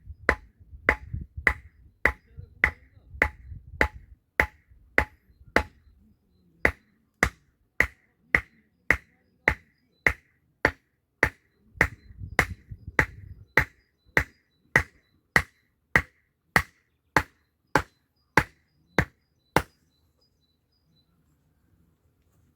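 Hand tool striking at a steady pace, about one and a half blows a second, each a sharp knock with a short ring, typical of hammering. The strikes stop a few seconds before the end.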